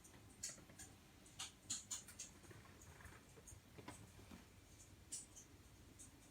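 Faint, scattered light clicks and scrapes, a few at a time, as of small objects being handled.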